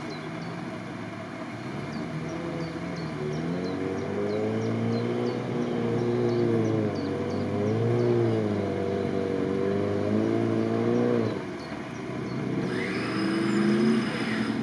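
Off-road 4x4 vehicle's engine revving up and down under load. The revs build from about two seconds in and rise and fall several times, then drop off suddenly a little past eleven seconds. A shorter burst of revving follows near the end.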